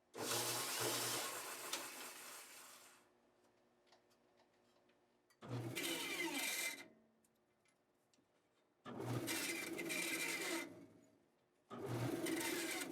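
A small powered tool run in four short bursts of about one to three seconds each, each starting suddenly, with quiet gaps between them.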